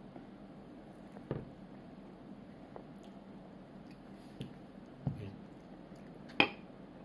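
A toddler biting into and chewing a breaded fried shrimp, with four short, sharp knocks and clicks spread through, the loudest near the end.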